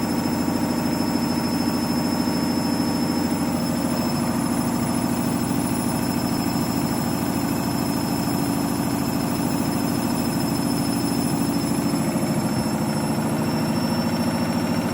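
Candy washing machine in its final spin with a half load of synthetics, running loud and steady with a very noisy drum drone and a thin high motor whine. Near the end the low drone shifts in pitch.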